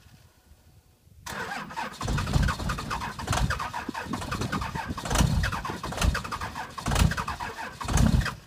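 A 2001 Dodge Ram's 5.9-litre 24-valve Cummins inline-six diesel cold-starting at −35 °C without a block heater. After about a second of quiet it catches and runs rough with uneven surges, then the sound cuts off near the end.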